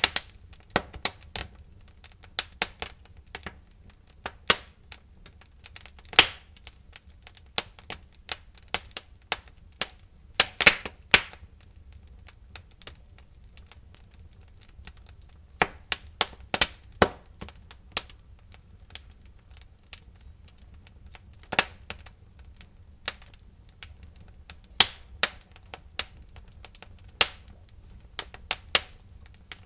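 Wood fire crackling in a fireplace: irregular sharp pops and snaps over a faint low rumble, with the loudest pops about six, eleven, seventeen and twenty-two seconds in.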